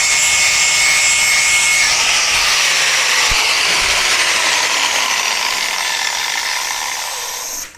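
Angle grinder grinding the edge of a steel rotary mower blade to sharpen it: a loud, harsh hiss with a whine whose pitch sinks over the second half, cutting off abruptly near the end.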